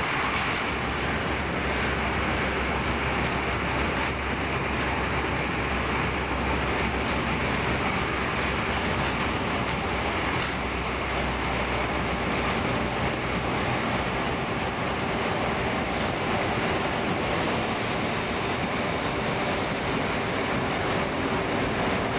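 Class X10 electric multiple unit train running on the line: steady rolling and running noise with a faint constant hum.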